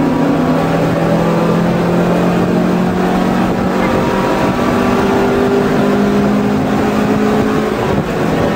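A car's engine running hard at speed, heard from inside the cabin, as a steady drone with road and wind noise. The drone dips briefly near the end.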